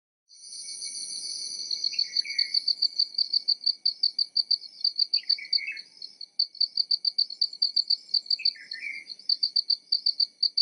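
Crickets chirping in a fast, even pulse over a steady high insect trill, with a short falling call repeating about every three seconds beneath it. The sound fades in just after the start.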